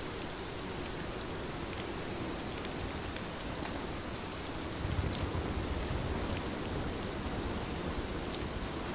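Heavy rain falling steadily, with a dense hiss and scattered drop ticks. A low rumble swells about five seconds in.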